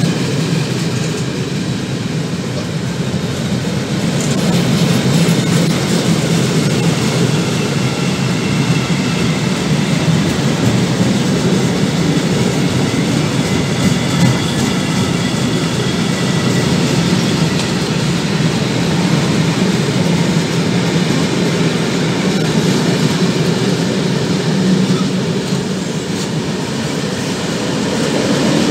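Freight train of closed goods wagons rolling past at speed: a steady rumble of wheels on rail with clickety-clack at the rail joints and a thin high wheel squeal through the middle.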